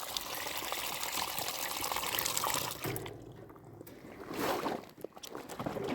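Liquid trickling in a steady stream that stops about three seconds in, followed by a couple of brief rustling noises.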